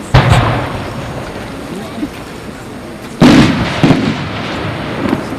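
Aerial firework shells bursting: two loud booms about three seconds apart, each followed by a fading rumble, with a smaller bang just after the second.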